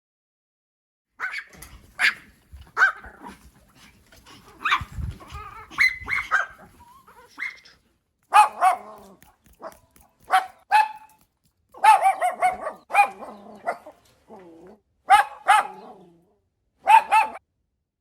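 A dog barking: short, fairly high-pitched barks, many of them in quick pairs, starting about a second in.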